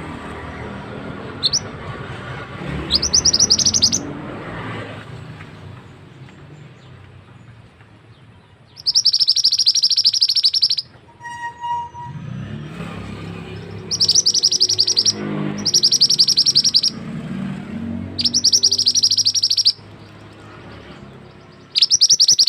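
Mantenan (minivet) singing: a series of high, fast trills, each lasting one to two seconds, repeated about six times with short gaps.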